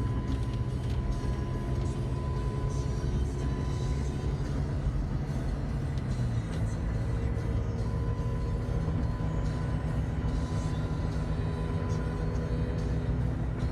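Engine hum and road rumble inside a moving car, with scattered light raindrop ticks and music playing over it.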